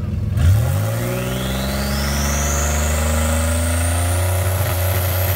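A 2013 Ford Mustang's 3.7-litre V6 revs up quickly about half a second in and then holds a steady rpm on the two-step launch limiter, with the automatic held by the trans brake. A high whine climbs steadily in pitch over the hold.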